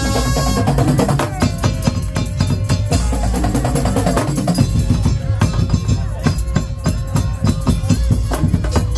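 Madurese tong-tong (daul) music: a percussion ensemble of bamboo slit drums and drums playing fast, dense rhythms, with held melodic notes over them.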